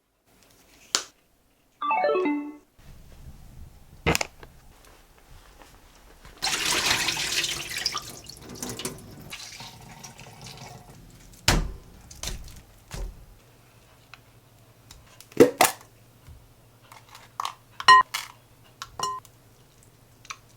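Household handling sounds: scattered clicks and knocks, with a short burst of running water about six seconds in and a brief falling melodic jingle near the start.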